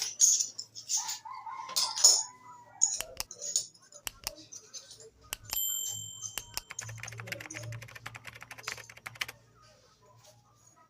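Small metal parts of clipper blades being handled: scattered clicks and clinks, a short ringing ding about five and a half seconds in, then a run of rapid ticking with a faint low hum.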